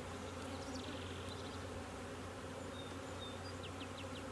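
Thousands of honeybees buzzing around an opened hive: a steady, dense hum heard up close.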